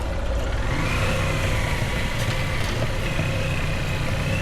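Motorbike engine running steadily, with a low rumble and a higher whine that rises about a second in and then holds.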